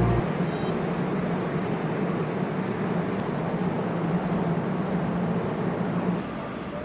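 Steady vehicle noise with a low hum, typical of a passing train or heavy traffic near a railway station. The hum drops away about six seconds in.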